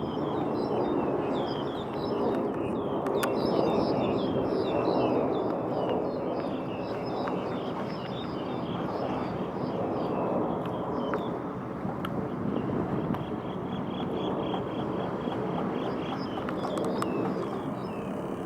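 Small birds chirping in quick, repeated calls over a steady rumble of outdoor background noise. About two-thirds of the way in, the chirping gives way to a thin, steady high trill that stops shortly before the end.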